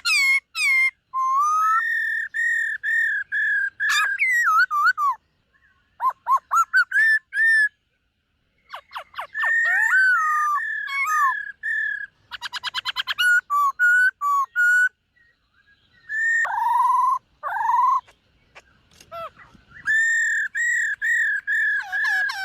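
Black-throated laughingthrush singing: phrases of clear whistled notes, often repeated several times in a row, mixed with quick trills and sliding notes, separated by short pauses.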